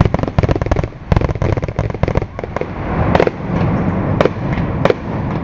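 Aerial fireworks going off: a dense run of rapid crackling bangs, then separate loud booms about a second apart over a continuous rumble.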